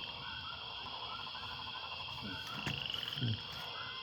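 A chorus of frogs calling outdoors: repeated short croaks and rapid pulsed trills, with a few soft knocks in the second half.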